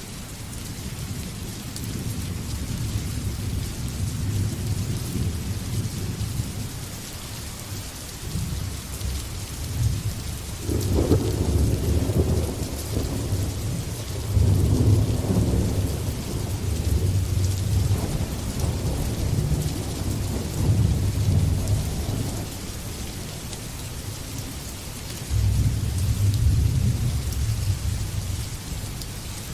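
Steady rain hissing, with thunder rumbling low through it. The rumbling swells about ten seconds in, rolls on for about ten seconds, and swells again near the end.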